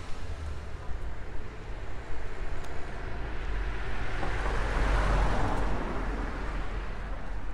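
A car passing by on the street, its noise swelling to a peak about two-thirds of the way through and then fading, over a steady low rumble.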